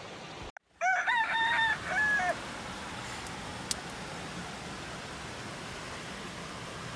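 A rooster crowing once, a multi-note cock-a-doodle-doo ending on a falling note, about a second in, over a steady hiss.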